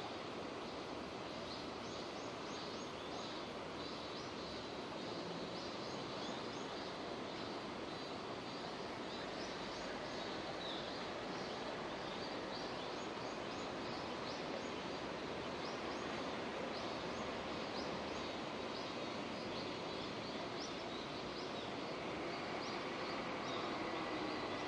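Steady rain falling, an even hiss, with many short, high chirps over it.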